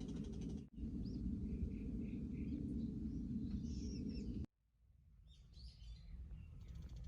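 Small birds chirping and calling over a steady low rumble. The sound cuts out abruptly about two-thirds of the way through, then fades back up.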